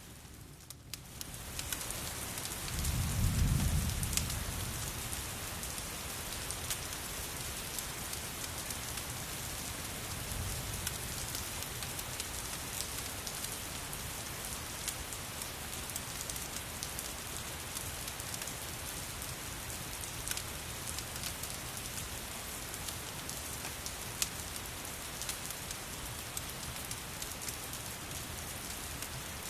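Steady rain hissing, with a low rumble of thunder about three seconds in and a fainter one around ten seconds. Fine scattered ticks run through the rain, and the sound drops out briefly at the very start.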